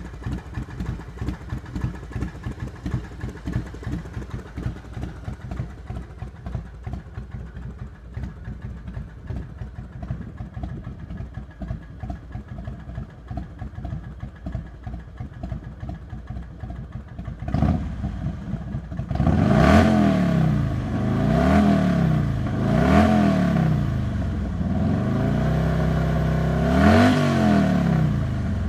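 2002 Harley-Davidson Heritage Softail Classic's 95-cubic-inch Screamin' Eagle V-twin, with a Mikuni HSR45 carburettor, idling with an uneven pulsing beat through Vance & Hines pipes. After a short blip it is revved about four times, each rev rising and falling.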